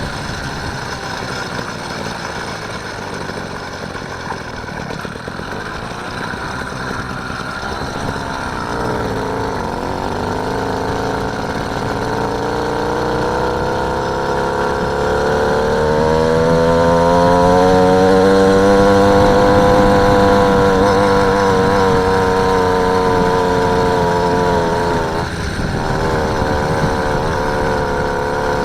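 Small engine of a motorised bicycle running under way. Its pitch dips about a third of the way in, then climbs and gets louder past the middle as it speeds up, before easing off a little near the end.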